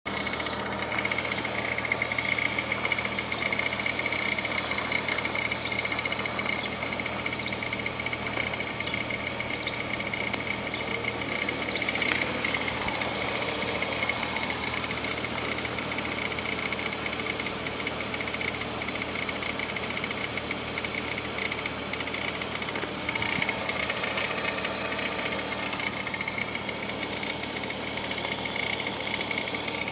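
Toyota Camry engine idling cold, with a steady high whine running through it from the timing-belt area: an unexplained noise that a newly replaced timing belt has not cured.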